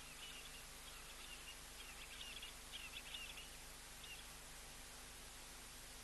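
Faint bird chirping in quick twittering clusters over a steady background hiss, stopping about four seconds in.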